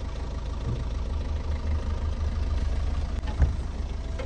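Car engine idling, a steady low rumble, with a single thump about three and a half seconds in.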